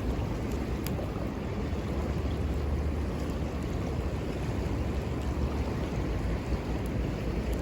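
Steady rush of a river with wind rumbling on the microphone, and a few sharp crackles from a small wood fire, the clearest about a second in.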